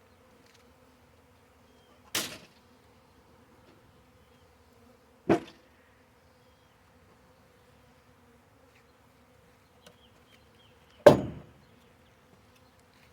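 A honey bee swarm hums steadily at a low pitch as the bees walk into the hive entrance. Three brief, loud noises cut through the hum, about two, five and eleven seconds in.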